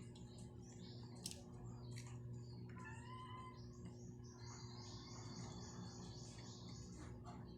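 Faint birds chirping: a short warbled call about three seconds in, then a run of quick high chirps, over a steady low hum.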